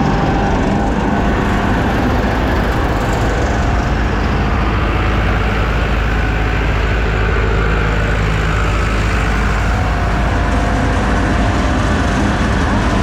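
Maize grain dryer running: a loud, steady low machine drone.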